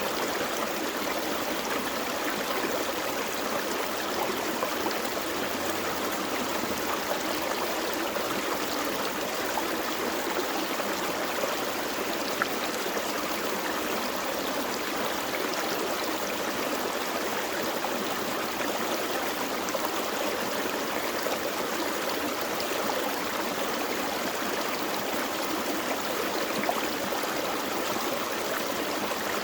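A small forest stream flowing over rocks: a steady, even rush of water with small splashes.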